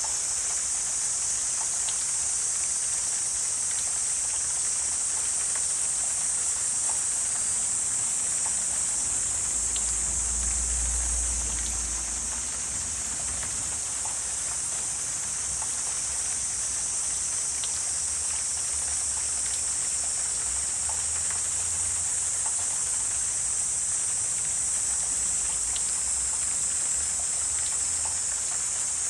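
Wetland ambience dominated by a steady, high-pitched insect chorus, with faint scattered ticks and a low rumble about a third of the way in.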